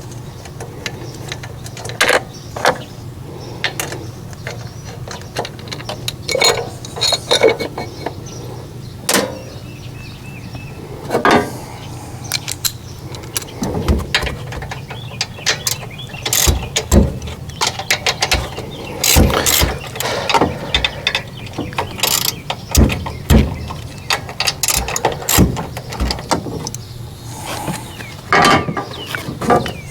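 Hand tools working on a Generac generator's engine during disassembly: irregular metallic clicks, clinks and knocks, some in quick ratchet-like runs, growing busier about halfway through.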